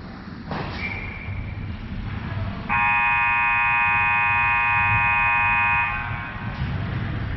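Ice rink's scoreboard horn sounding one steady blast of about three seconds, over the low rumble of the arena. A sharp knock comes about half a second in.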